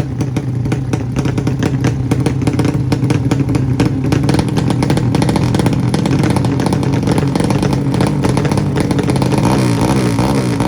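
Tuned 200cc underbone drag-bike motorcycle engine running loud, with a rapid crackle throughout. A wavering pitched sound joins near the end.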